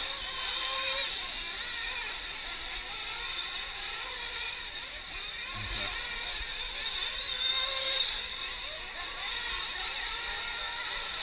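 Nitro-engined 1/8-scale RC racing trucks running on track, their small glow-fuel engines giving a continuous high-pitched whine that wavers in pitch as they speed up and slow down.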